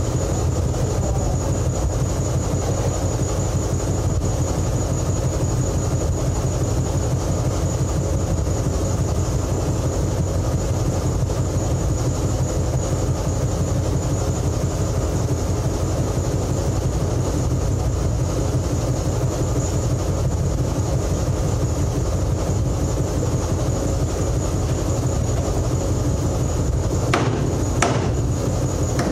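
Steady rumble of running machinery with a thin high whine over it. A few sharp metal hammer strikes come in near the end.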